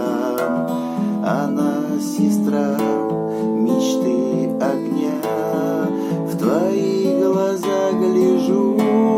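Instrumental passage of a song: acoustic guitar strumming chords under a melodic line with short sliding notes.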